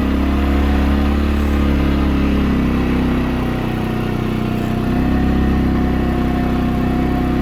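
CFMOTO CForce 400 ATV's single-cylinder engine running under load while driving through deep, wet snow in four-wheel drive. It eases off a little about halfway through and picks up again.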